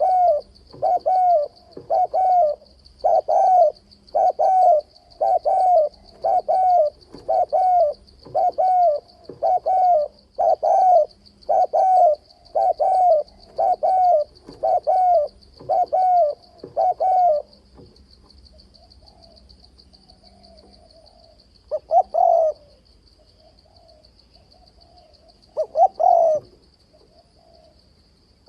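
Spotted dove cooing in a fast unbroken run of short, low coos, about one a second, then falling quiet. Two single coo phrases follow near the end.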